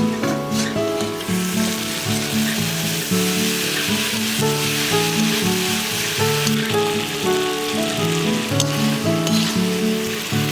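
Food frying in hot oil in a cooking pot, a steady sizzle, under background music with a melody of held notes.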